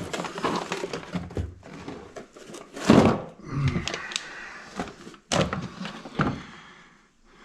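Rummaging through a storage bin of garage supplies: a run of knocks and thunks as items are moved about, the loudest about three seconds in.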